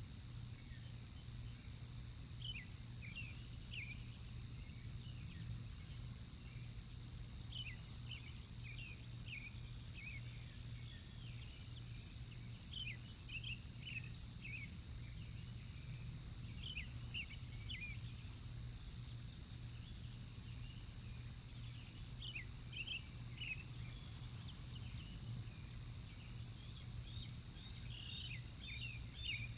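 Scattered bursts of short, high bird chirps, each a quick falling note, coming in little runs every second or few, over a steady low hum.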